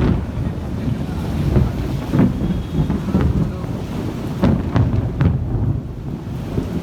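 Thunderstorm wind buffeting a phone's microphone in a loud, uneven low rumble, broken by several short sharp cracks.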